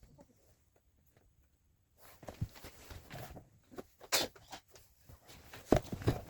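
Hands handling a plastic toy train and its packaging: irregular rustling with light knocks and clicks, starting about two seconds in, with a sharp click about four seconds in and a cluster of knocks near the end.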